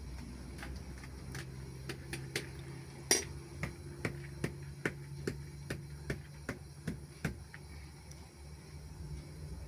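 A series of sharp knocks or taps: a few irregular ones, the loudest about three seconds in, then an even run of about two and a half a second that stops about seven and a half seconds in. A low steady hum sits underneath.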